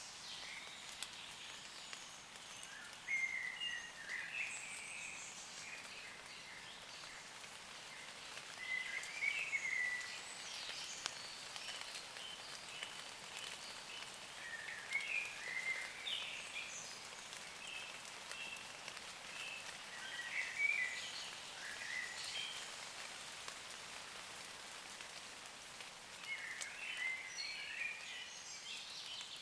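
Steady light rain pattering on leaves, with a woodland bird singing short, high chirping phrases every five or six seconds.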